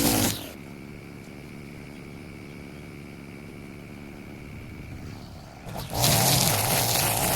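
Small petrol engine of lawn equipment running, cutting away about half a second in to a quieter stretch with a faint steady high tone; the engine sound comes back loudly about six seconds in.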